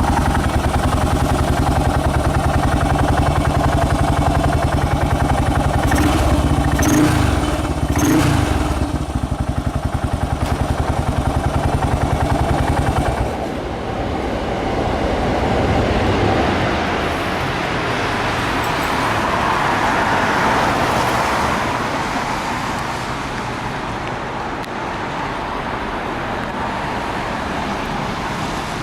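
Yamaha SR400 single-cylinder engine, bored to 534cc with an FCR41 carburettor, idling through its exhaust, with two quick throttle blips about seven and eight seconds in. About thirteen seconds in the engine is shut off, leaving a steady background hiss.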